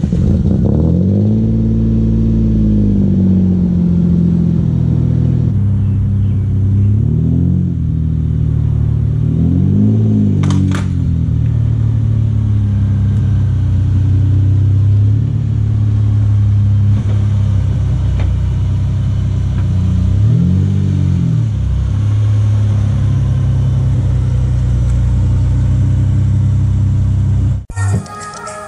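Mitsubishi 6G75 3.8-litre V6 breathing through Road Race Engineering headers and an Invidia exhaust, idling just after a cold start. It flares up to a high idle and comes back down, settles to a steady idle, and is blipped briefly about three times, its pitch rising and falling each time.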